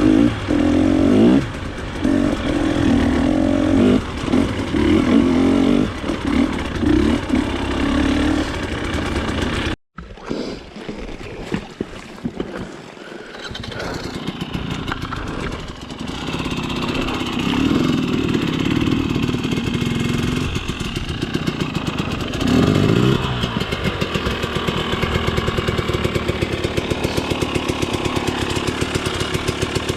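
Off-road trail motorcycle engine running under changing throttle as the bike is ridden, with the revs rising and falling. The sound cuts out abruptly about ten seconds in, comes back quieter, and near the end settles into an even, steady putter.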